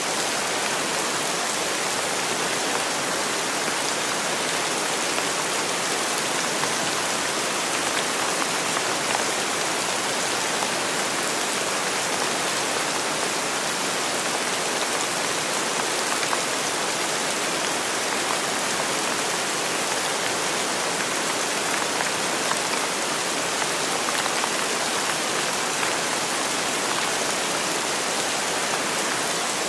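Steady rainfall, an even hiss that holds the same level throughout, with no thunder or single drops standing out.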